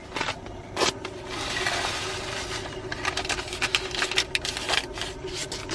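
Food containers and packaging being handled: scattered clicks and taps, with a stretch of rustling about a second and a half in, over a faint steady hum.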